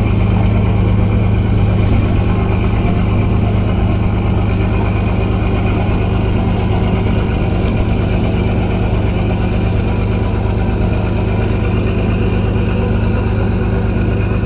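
Engine running steadily at a constant speed, a loud, even low drone with no change in pitch.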